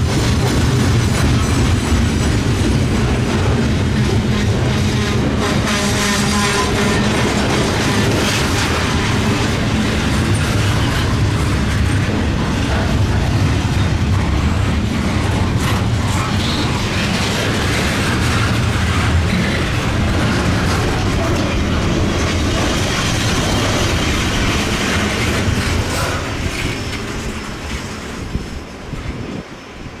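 Intermodal freight train's container cars rolling past close by: a steady rumble and clatter of wheels on rail, easing off over the last few seconds.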